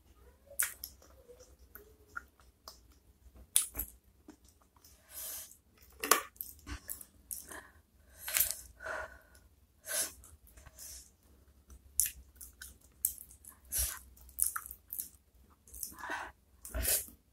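Close-miked chewing of spicy chicken feet: irregular wet mouth smacks and clicks.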